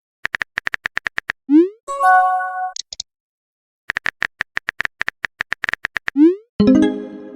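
Chat-app sound effects: a run of quick, even clicks like typing, about eight a second, ending in a short rising swoop and a held chiming tone. After a pause of about a second, a second run of clicks ends the same way near the end, with a swoop and a buzzier chime.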